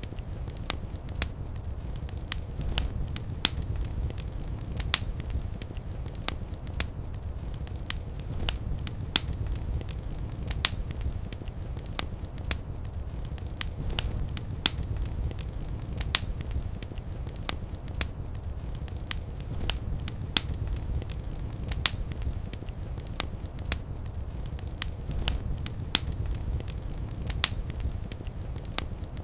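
Fireplace fire burning: a steady low rumble of flames with frequent, irregular sharp crackles and pops.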